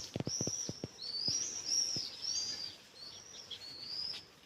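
Small songbirds chirping: a steady run of short, high, arched chirps. Several soft low thumps in the first second.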